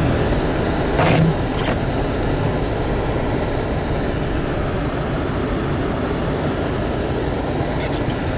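Steady in-cabin rumble of a four-wheel-drive vehicle driving through snow: engine and tyre noise at a constant level.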